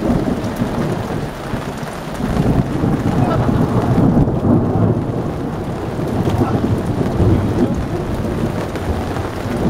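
Heavy rain with a deep, low rumble, joined by the splashing of feet running through a shallow rain puddle on grass. The sound grows louder for a few seconds starting about two seconds in.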